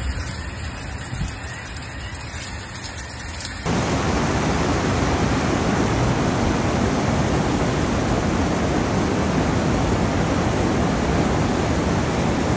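Torrential rain in a thunderstorm, a steady loud hiss. It jumps suddenly louder about four seconds in.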